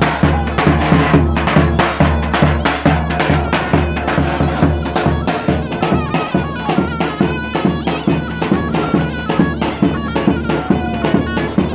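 Traditional Turkish folk music for a Bayburt bar dance: a wind-instrument melody over a low drone and a steady, even drumbeat.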